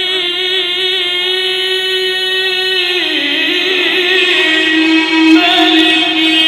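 A male reciter's voice drawing out a long, ornamented melodic note in Quranic chanted recitation, with a wavering vibrato; the pitch drops about three seconds in and climbs back up after about a second and a half.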